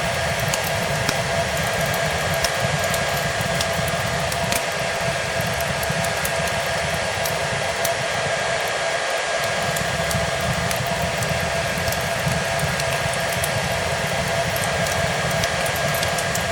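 Hair dryer running steadily, a constant rush of air with a steady motor whine, mixed with the scattered small crackles of a wood fire.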